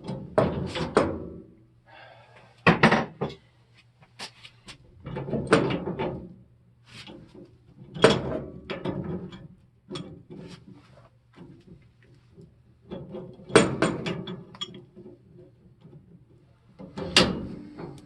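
Large adjustable crescent wrench working a threaded steel gas pipe fitting: a series of separate metal knocks and clanks with a short ring, a second or few apart, and quieter scraping and ratcheting between them.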